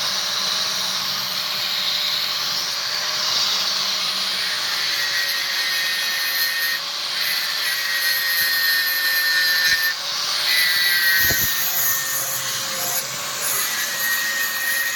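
Electric grinder grinding a steel spear blade cut from a truck leaf spring: a steady rasping hiss with a faint whine that comes and goes as the work is pressed on and eased off.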